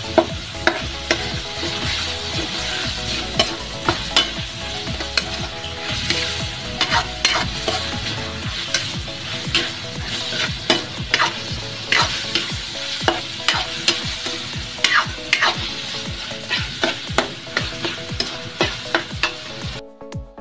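Chicken and chicken liver frying in a wok with a steady sizzle, while a metal spatula scrapes and knocks against the pan as it is stirred. The frying sound cuts off suddenly near the end.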